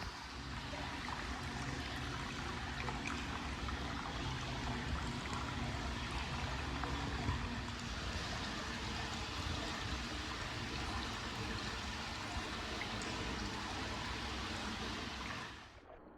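Hot spring water pouring steadily into a bath, a constant splashing rush that cuts off shortly before the end.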